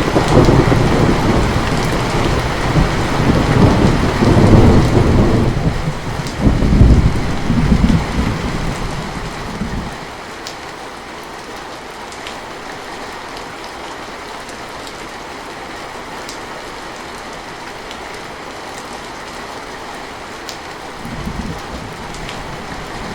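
Heavy rain falling steadily under a roll of thunder. The thunder rumbles loud and deep through the first ten seconds, swells again about seven seconds in, then dies away to leave only the rain. A fainter rumble comes near the end.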